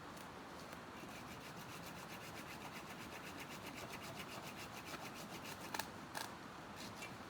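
A hand tool rasping rapidly and regularly on wood, about ten strokes a second, then a few sharper knocks of wood near the end.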